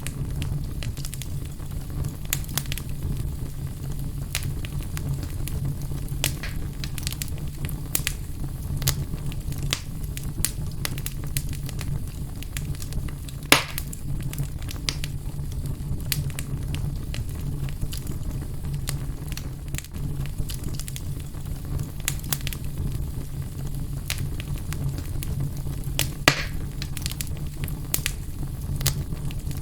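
Fire burning in a fireplace, crackling with frequent small snaps over a steady low rumble. Two louder pops stand out, about halfway through and near the end.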